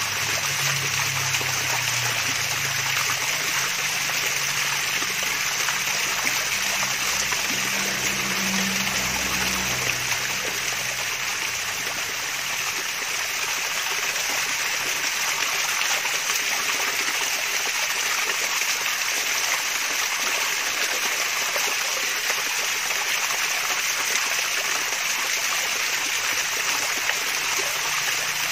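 Water of a small waterfall splashing and trickling steadily, an even, unbroken babble of falling water.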